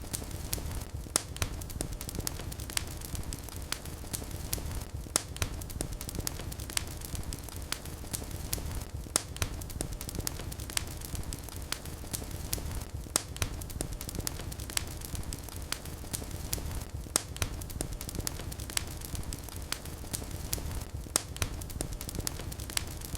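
Wood fire burning in a fireplace: a steady low rumble of the flames with irregular sharp crackles and pops, some of them louder snaps.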